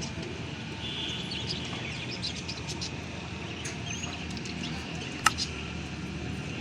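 Small birds chirping and twittering in short, high calls over a steady low background hum, with one sharp click about five seconds in.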